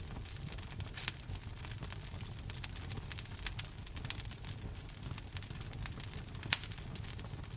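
Wood fire burning in a fireplace: a steady low rumble of flame with constant small crackles and a couple of sharper pops, about a second in and near the end.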